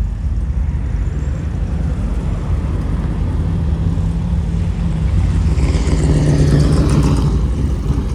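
Classic car engines rumbling as the cars drive off. One passes close, loudest around six to seven seconds in, its sound falling in pitch as it goes by.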